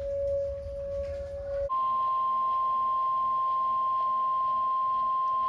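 A steady lower tone over a low rumble cuts off abruptly about a second and a half in, and a loud, steady single-pitch alert tone takes over: the weather radio warning alarm tone that comes before a new warning message is read.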